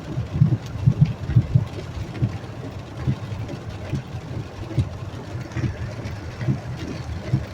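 A car driving through heavy hail, heard from inside the cabin: a steady rumble broken by many irregular dull thuds as hail strikes the car and the tyres run over the hail-covered road.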